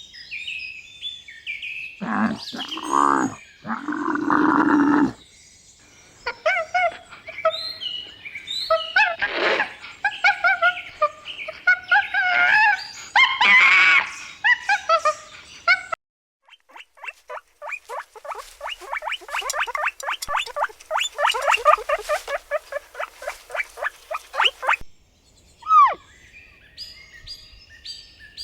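A run of different animal calls one after another. First come a few long, low, pitched calls, then a stretch of overlapping chirps and squawks. After that comes a long, fast, pulsing rattle of calls, and near the end a couple of short falling whistles.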